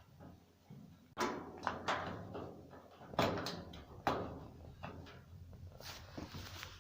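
Several knocks and clatters from handling a portable ceramic gas heater, then a steady hiss begins near the end as the heater's burner runs.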